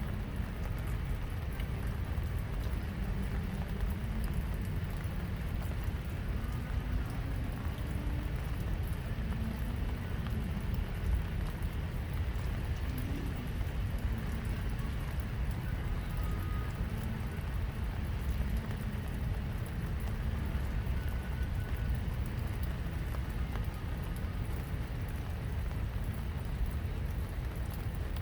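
Steady rain falling, a constant patter of drops over a low rumble.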